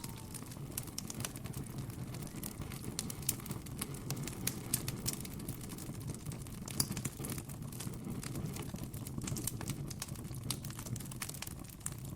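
Wood campfire crackling, with many small irregular pops and snaps over a steady low rush of burning.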